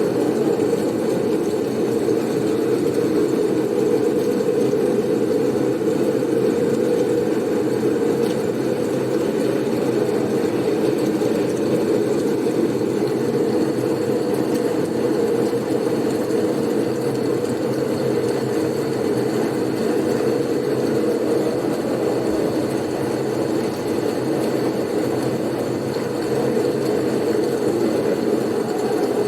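Blizzard wind ambience: a steady, dense, low rushing noise with no clear gusts or breaks, easing slightly about two-thirds of the way through.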